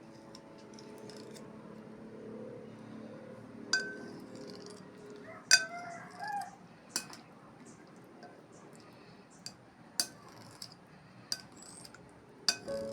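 Utensils clinking against glass and ceramic dishes during a meal: about eight sharp, separate clinks at irregular intervals. The loudest comes about five and a half seconds in.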